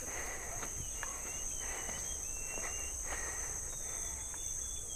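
Steady high chirring of an insect chorus, with a few faint short whistled notes over it.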